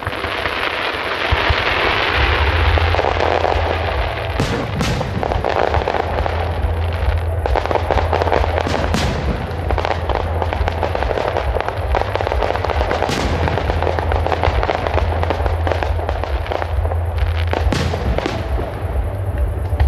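Fireworks display going off: a dense, continuous crackle and hiss from fountains and bursting shells over a low rumble. A handful of sharp shell-burst bangs are spread through it.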